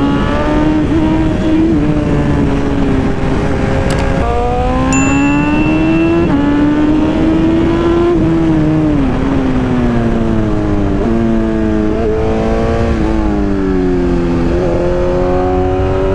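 BMW S1000RR inline-four engine heard while riding, its pitch climbing and falling with speed and jumping at several gear changes, over wind noise. A brief high beep sounds about five seconds in.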